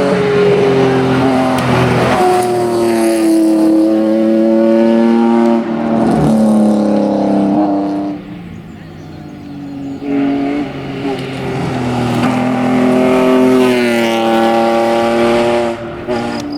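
Hyundai Coupe V6 race car's V6 engine driven hard on a hillclimb. The pitch climbs and drops with throttle and gear changes; the sound fades for a couple of seconds around the middle, then comes back loud.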